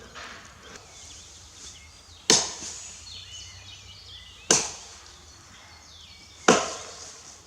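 Axe blows chopping into fresh, hard wood: three sharp chops about two seconds apart.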